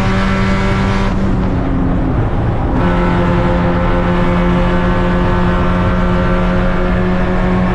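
Race car engine running at a steady, unchanging note. About a second in the engine note drops away for a second and a half, leaving a rushing noise, then returns at the same pitch.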